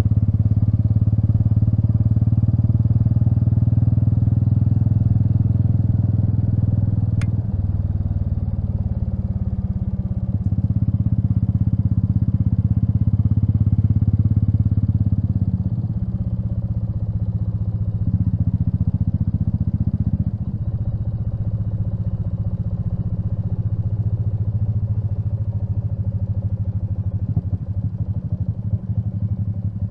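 Royal Enfield Meteor 350's single-cylinder engine running as the motorcycle is ridden. Its note drops and picks up again several times with gear changes or throttle changes, and there is a single sharp click about seven seconds in.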